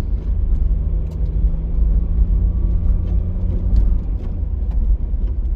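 Steady low road and engine rumble of a moving car heard from inside the cabin, with a faint hum that fades out about four seconds in.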